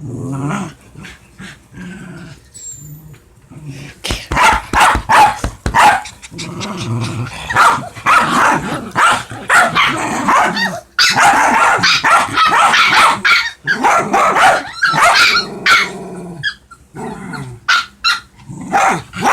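Dogs play-fighting: growling and snarling with sharp barks mixed in. It gets much louder and denser about four seconds in and eases off near the end. It is rough play, not a real fight.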